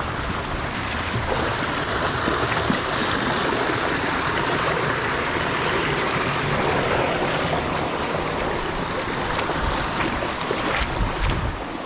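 Upstream mountain stream flowing steadily over rocks, a continuous rushing of water, with a couple of faint sharp knocks near the end.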